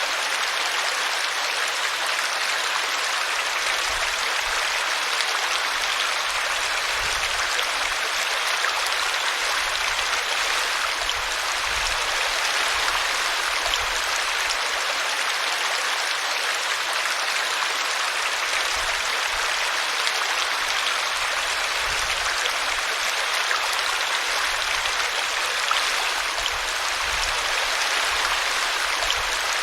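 Small brook running over a tree root: a steady, even rush of flowing water.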